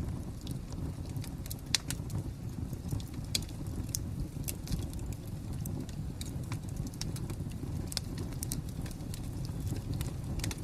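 Fire crackling: irregular sharp pops and snaps over a steady low rumble, with one louder pop near the start.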